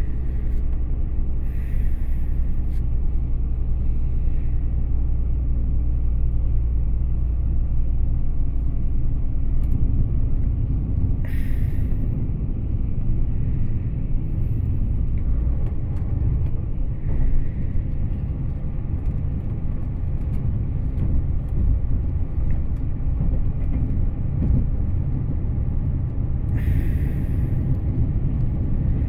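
Passenger train running, heard from inside the carriage: a steady low rumble of wheels on the track, with a few brief hissing sounds.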